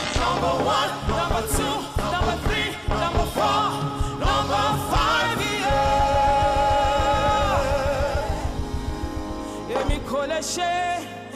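Gospel worship music: singers hold long notes with vibrato over a band with a steady drum beat.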